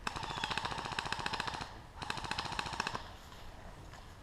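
Airsoft gun firing two fully automatic bursts of rapid shots: a longer burst of under two seconds, then after a short pause a burst of about a second.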